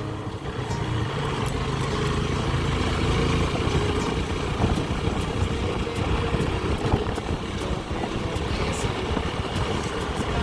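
Motorcycle engine running steadily, a low drone under a haze of road and wind noise.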